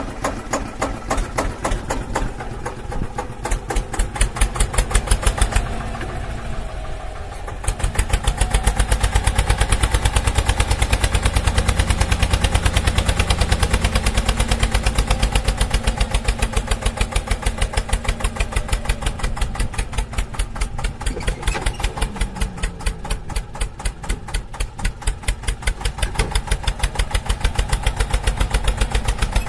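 An engine running with a steady, rapid chugging that gets louder about eight seconds in.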